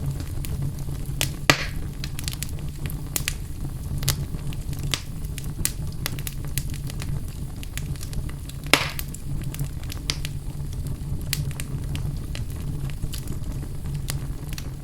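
Fire burning in a fireplace, crackling with frequent small sharp clicks and two louder pops, one about one and a half seconds in and one near nine seconds, over a steady low rumble.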